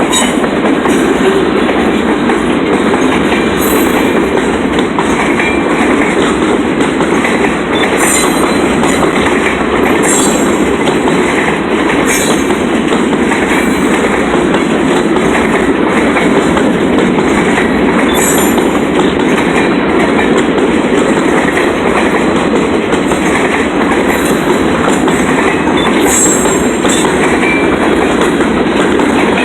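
Freight train cars rolling past close by, a steady loud rumble broken by repeated clacks of wheels over rail joints.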